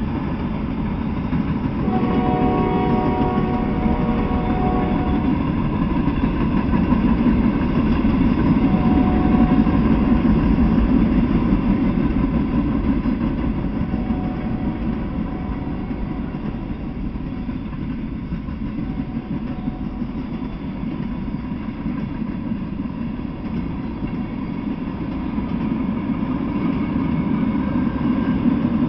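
Freight train rolling past at speed, a steady rumble of steel wheels on rail as a string of freight cars goes by. About two seconds in, a train horn sounds a chord for about three seconds.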